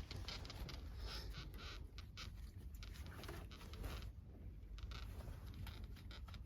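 Faint, irregular scraping and rustling, like something being handled or rubbed, over a low background rumble.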